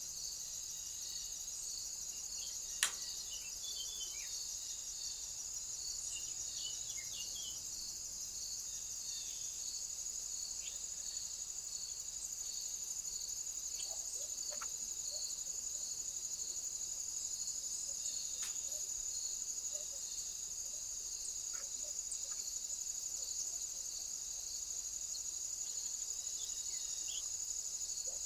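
Crickets and other insects chirping: a steady high-pitched trill with a row of evenly spaced chirps about twice a second. A single sharp click about three seconds in.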